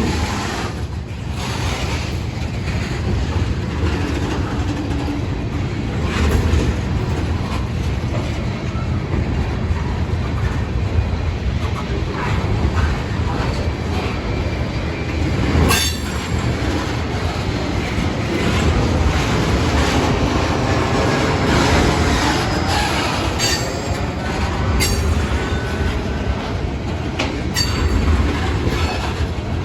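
Freight train of ethanol tank cars rolling past: a steady rumble of wheels on rail with a few sharp clanks from about 16 seconds in, and faint wheel squeal in the middle.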